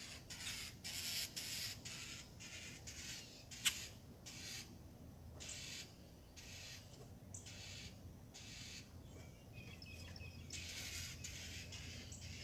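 Wild birds calling in a run of short, harsh, raspy calls, about two a second, with a sharp click a little under four seconds in.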